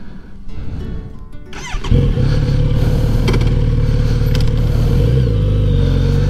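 Kawasaki Z900RS inline-four being started. A brief rising starter whine is followed by the engine catching about two seconds in, then running at a steady idle through its full-system exhaust.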